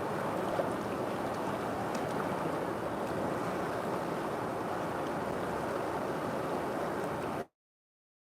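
River water rushing steadily in an even, continuous wash; it cuts off abruptly about seven and a half seconds in.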